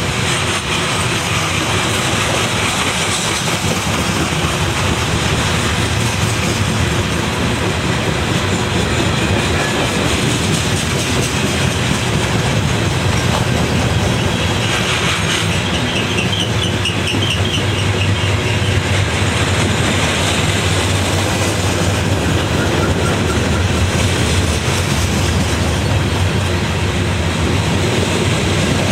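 A train rolling past at trackside: a steady rumble with the clickety-clack of wheels over the rail joints, and a brief high-pitched wheel squeal about halfway through.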